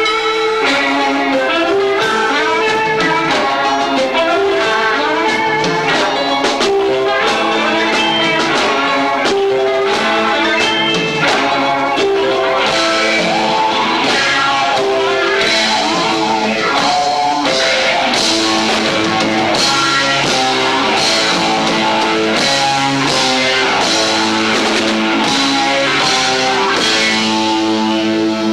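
Live rock band playing loud: guitar, bass and two drum kits, recorded through a 1990s camcorder's own microphone, so the sound is low-fi and crushed. About halfway through, the drums and cymbals get busier and brighter.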